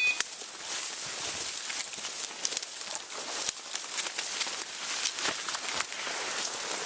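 Footsteps pushing through dry leaves and brush in the woods, with a steady rustle and many small crackles and twig snaps.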